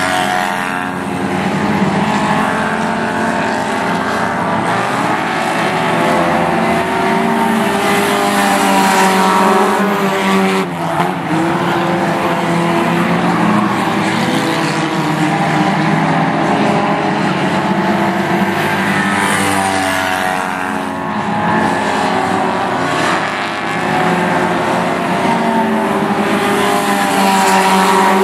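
Several race car engines running at once during a race, their pitches rising and falling as the cars accelerate and ease off, with a brief dip in level a little over ten seconds in.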